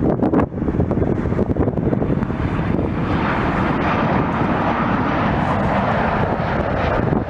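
Jet airliner's engines passing close by. The noise grows louder and brighter from about two and a half seconds in and holds steady.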